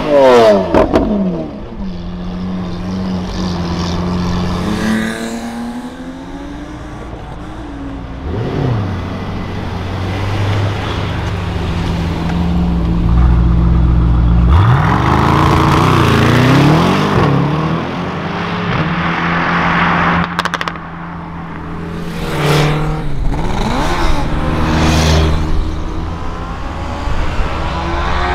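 Performance cars accelerating away one after another. A Lamborghini Aventador's V12 revs and pulls away at the start. Engines idle in between, then a Brabus-tuned Mercedes-AMG E63's twin-turbo V8 revs and accelerates hard with a deep rumble about halfway through. Sharp revs follow, and another car accelerates near the end.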